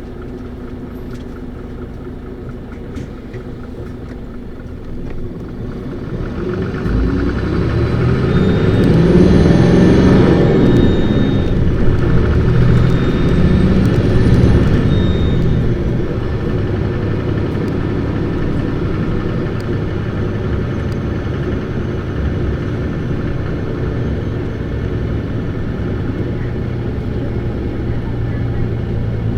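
Isuzu Erga city bus's inline-six diesel engine heard from inside the bus, pulling away and revving hard: two rising sweeps in engine pitch as it winds up through the gears, peaking about a third of the way in, then settling into a steady cruise.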